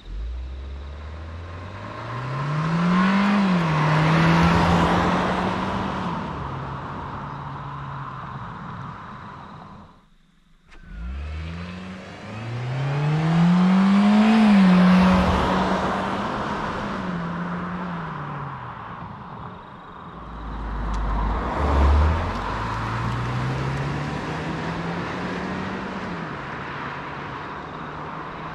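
The engine of a 2023 Kia Seltos, a four-cylinder petrol, revving up under hard acceleration. Its pitch climbs, drops back, then holds nearly level as speed builds, with rushing road and wind noise over it. There are three runs, broken by a short silent cut about ten seconds in and another break near twenty seconds.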